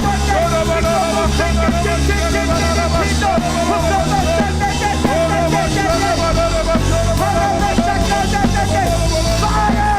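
Loud live worship music, rock-style, with many voices singing and wavering over it.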